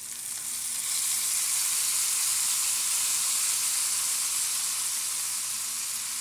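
Sliced bell peppers sizzling in a hot skillet. The sizzle builds over about the first second as Worcestershire sauce is poured into the pan, then holds steady and eases slightly toward the end.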